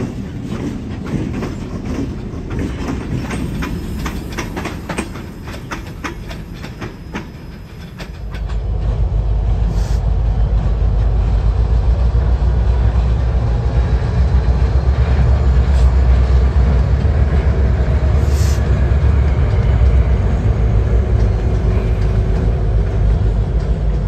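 Freight cars rolling past close by, their wheels clicking over rail joints in quick runs. About eight seconds in, a loud, steady low rumble takes over as a Canadian Pacific diesel locomotive pulls covered hopper cars past.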